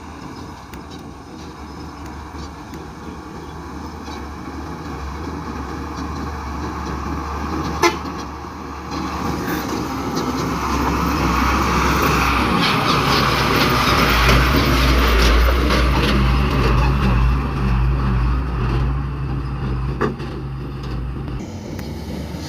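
Dump truck's diesel engine running, growing louder to a peak about two-thirds of the way through and then easing off. A single sharp knock stands out about a third of the way in.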